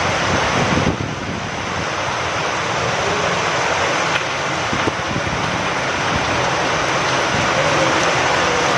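Steady rain falling with wind, a dense even hiss, with a couple of sharper drip ticks about four and five seconds in.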